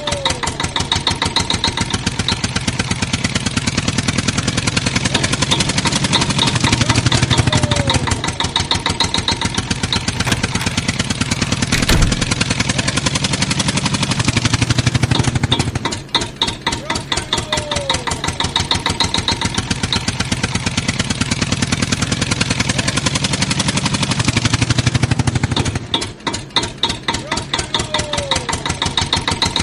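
Recorded tractor engine sound with a fast, even putt-putt running at a steady pace, repeating as a loop about every nine to ten seconds.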